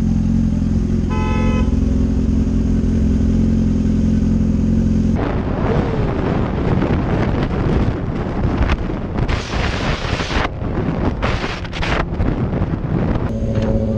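Motorcycle engine running steadily, with a short vehicle-horn toot about a second in. About five seconds in the sound changes abruptly to riding noise: rushing wind and engine, with loud bursts of hiss. A steady engine note returns near the end.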